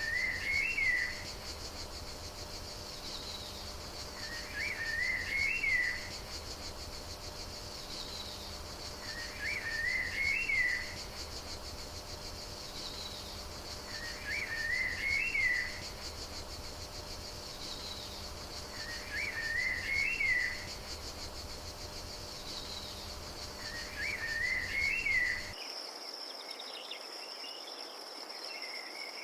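A short songbird phrase repeats six times at even intervals of about five seconds over a steady insect chorus. About 25 seconds in, the ambience switches to a steadier, higher cricket trill.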